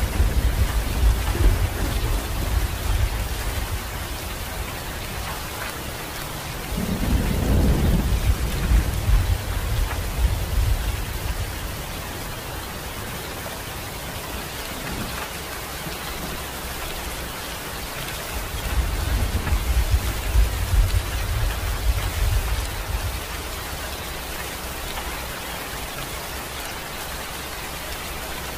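Steady rain falling, with low thunder rumbling three times: at the start, about seven seconds in, and again about nineteen seconds in, each rumble swelling and fading over a few seconds.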